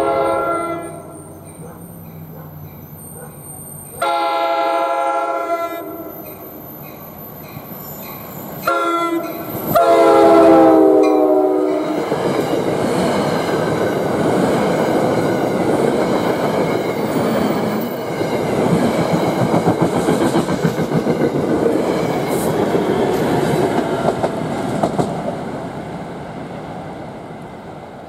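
NJ Transit push-pull train's K5LA horn on the leading Comet V cab car sounding the grade-crossing signal: the end of one blast, then long, short and long blasts, the last one held. The train then passes over the crossing with its wheels clattering on the rails, a loud steady rumble that fades near the end.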